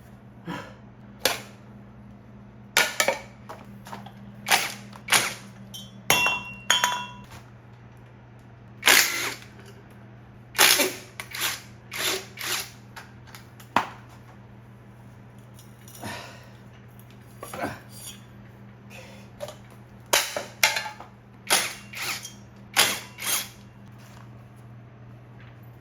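Irregular sharp metal clanks and clicks of hand tools and loose parts being handled while a motorcycle is taken apart, about twenty knocks at uneven spacing, with a brief metallic ring about six seconds in. A steady low hum runs underneath.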